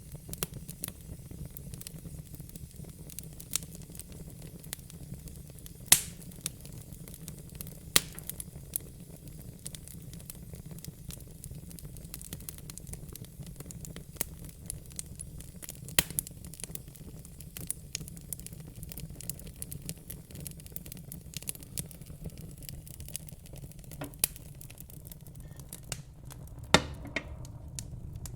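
Fire crackling: irregular sharp pops and snaps over a low steady rumble, with a few louder pops.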